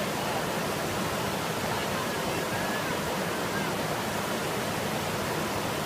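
Rushing floodwater: a steady, dense wash of fast-moving water with no breaks.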